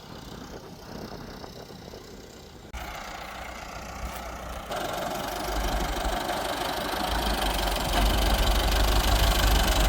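An engine running and getting louder, with two sudden jumps in level about three and five seconds in.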